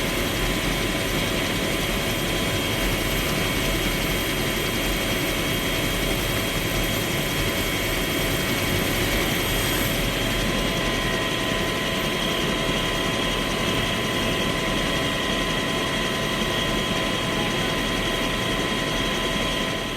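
Bell UH-1 Huey helicopter heard from inside the cabin, its turbine engine and rotor running steadily: a constant whine over a dense rumble, with no change in pitch or level.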